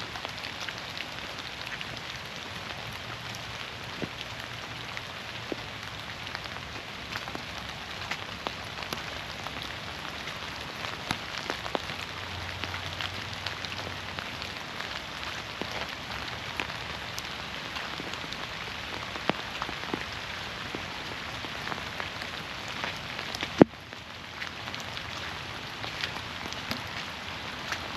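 Steady rain falling through a forest canopy, with many separate drops ticking close by. A single sharp click stands out near the end, after which the rain is a little quieter.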